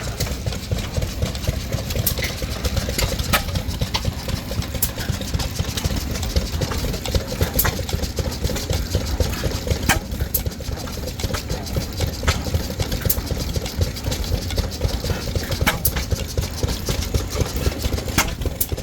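Antique stationary gas and oil engines running steadily, with sharp clicks coming irregularly, about one every second or two.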